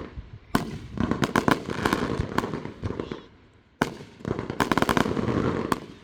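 Fireworks going off in rapid, dense strings of sharp cracks and pops, in two long bursts of about two to three seconds each with a short lull between.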